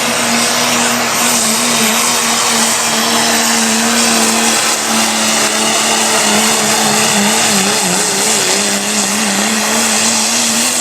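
Diesel pickup engine held at full throttle at high, steady revs while pulling the sled, over a constant hiss of spinning tires. The engine note wavers slightly about three quarters of the way through.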